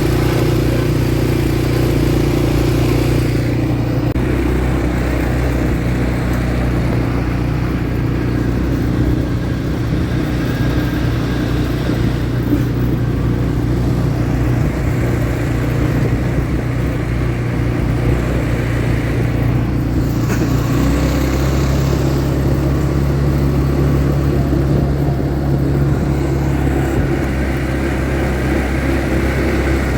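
ATV engine running steadily under way. Its engine note shifts to a different steady pitch about two-thirds of the way through.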